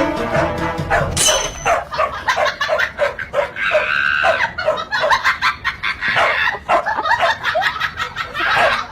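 A dog barking and yipping in many short, quick calls. Background music stops about a second in.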